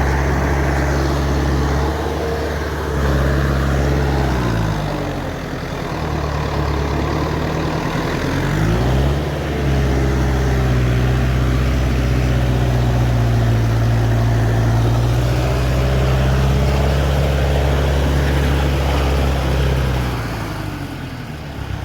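Heavy truck engine running hard under load, its pitch dropping and picking up again twice in the first half, then held steady before easing off near the end. It is the sound of the truck straining to get free on a muddy, rain-ruined road.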